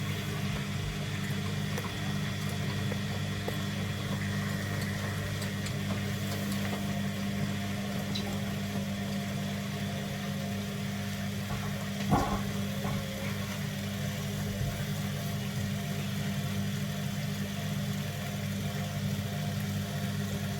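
Front-loading automatic washing machine running mid-cycle with its covers off, giving a steady low hum, with a single knock about twelve seconds in.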